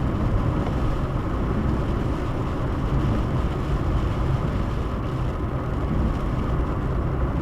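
Steady road and engine noise heard inside the cabin of a moving car: an even low rumble with no sudden events.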